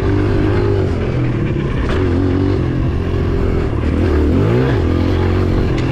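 Dirt bike engine running and revving, its pitch going up and down, with a quick rev up and back down about four and a half seconds in.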